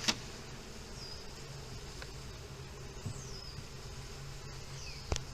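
Honeybees buzzing steadily around a hive entrance as a newly installed colony walks in. Two sharp clicks, one just after the start and one near the end.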